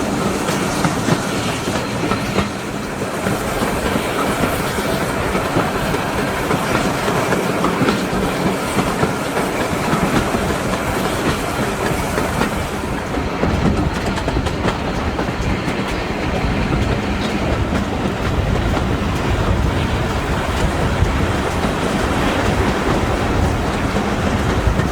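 Steam-hauled passenger train running along the track, its wheels clicking over rail joints under a steady rumble and hiss. About halfway through the high hiss fades and a deeper rumble takes over.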